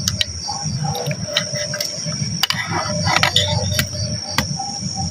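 Crickets trilling, one high unbroken note, over a low rumble with scattered clicks and a few short faint calls.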